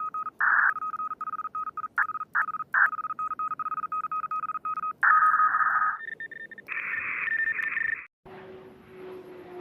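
A fast train of short, high beeps at one steady pitch, broken by a few louder, harsher bursts. About eight seconds in it cuts off and a low drone takes over.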